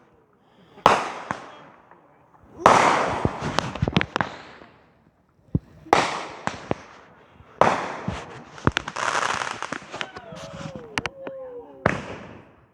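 Fireworks going off: five loud bangs, each followed by a shower of crackling pops that fades out over a second or two.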